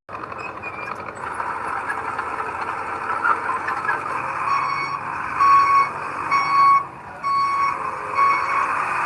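Diesel engine of heavy earthmoving machinery running. From about halfway, a backup alarm starts beeping steadily, about once a second: the machine is reversing.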